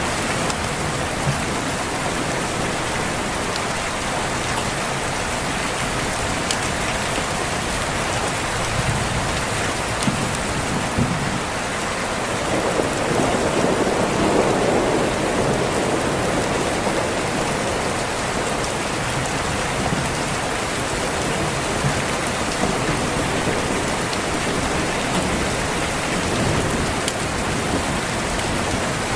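Steady heavy rain, with thunder rumbling and swelling louder for a few seconds about halfway through.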